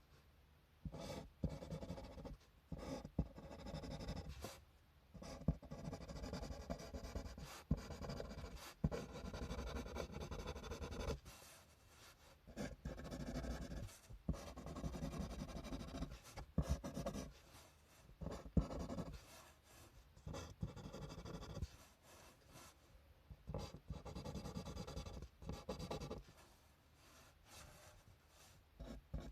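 Analog manga drawing on paper: a drawing tool scratching across the page in strokes lasting a second or two, with short pauses and an occasional tap between them.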